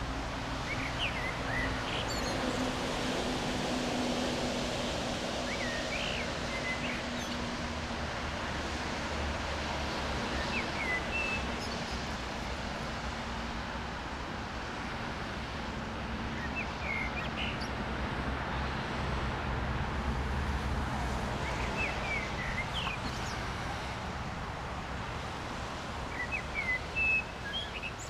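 Small birds chirping now and then, short calls every few seconds, over a steady outdoor background noise with a faint low hum. A few brief knocks near the end.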